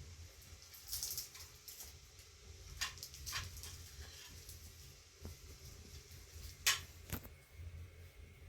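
A few scattered short knocks and rustles over a steady low hum, the sharpest one about two-thirds of the way through.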